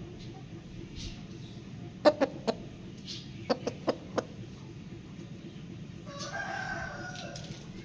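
Aseel rooster clucking: a run of short, sharp notes a couple of seconds in, then one longer drawn-out call lasting about a second near the end.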